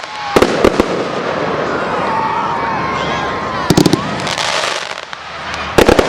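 Fireworks shells bursting in three quick clusters of sharp bangs: one near the start, one just past the middle and one near the end.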